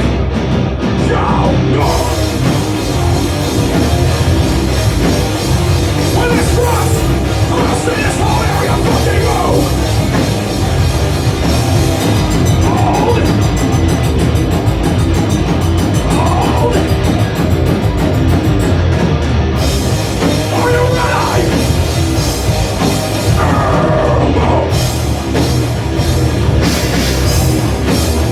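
Live heavy rock band playing loudly: drum kit, bass and distorted guitars in a full, steady wall of sound.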